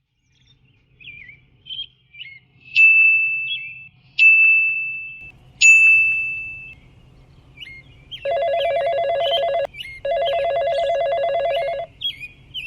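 Electronic ringtone-like tones: three sharp high pings that each fade out, then two long buzzing rings with a short gap between. Faint bird chirps run underneath.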